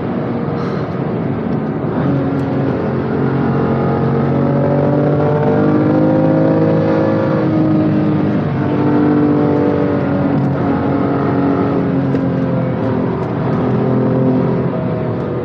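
BMW M2 Competition's twin-turbo 3.0-litre straight-six heard from inside the cabin at full race pace, its note climbing under acceleration and dropping back several times as it shifts and brakes for corners.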